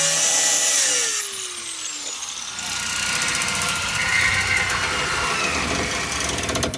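A power tool whines at full speed, then spins down with a falling pitch about a second in. From about two and a half seconds a rougher, noisier run of cutting or grinding follows and stops abruptly at the end.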